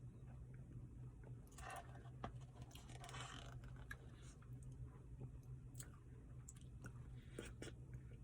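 Someone quietly eating a Reese's Blizzard: soft chewing with small mouth clicks, a couple of brief noisier bites or scrapes early on, over a steady low hum.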